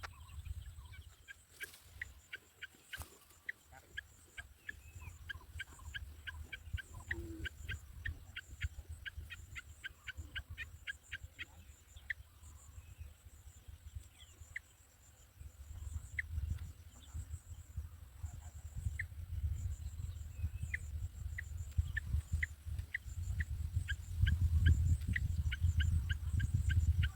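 A bird's short, sharp chirps repeated rapidly, about three or four a second. They thin out in the middle and come thick again later, over a low rumble that swells near the end.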